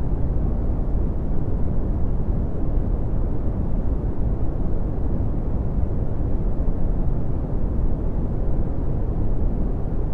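Steady red (Brownian) noise: a continuous deep rumbling hiss, strongest in the bass and fading toward the treble.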